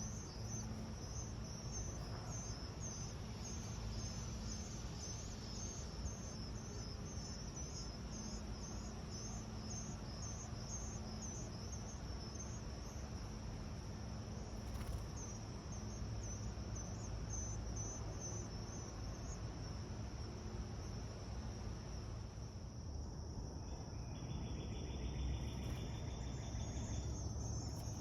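Insects trilling steadily in a high, fast-pulsing chorus over a low rumble. A second, lower steady buzz joins for a few seconds near the end.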